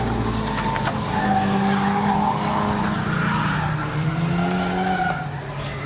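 Drift car engine revving with tyres squealing, the engine pitch rising and falling.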